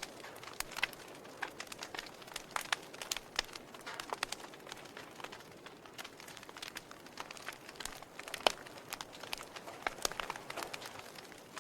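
Wood fire crackling in a fireplace: irregular sharp pops and snaps over a soft hiss, the loudest pop about eight and a half seconds in.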